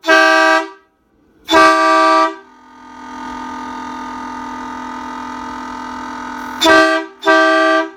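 Air horn fed by a 12-volt compressor's air tank, sounding four loud blasts: two in the first couple of seconds and two near the end. In between, a steady hum runs, the compressor motor starting up to refill the tank.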